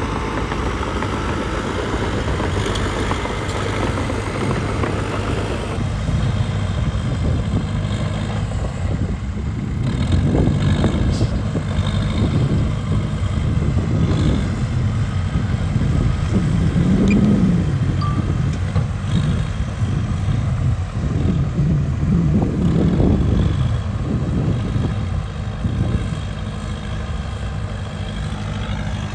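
Cat D3K2 XL crawler bulldozer's diesel engine working under load while pushing dirt, the engine note swelling and easing with the load and loudest about halfway through.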